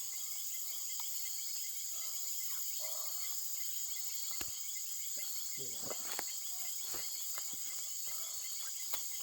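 Steady night-time chorus of crickets and other insects, a continuous high-pitched trilling, with a few faint low voices and a few sharp clicks.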